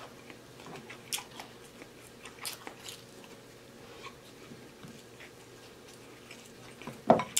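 Close-miked chewing and mouth sounds of a man eating fried rice, with scattered soft clicks and smacks, and one brief louder mouth sound near the end.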